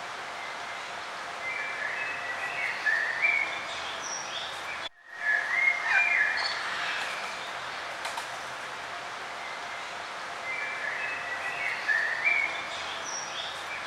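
Songbirds singing in short chirping phrases every few seconds over a steady outdoor hiss. The sound drops out for a split second about five seconds in.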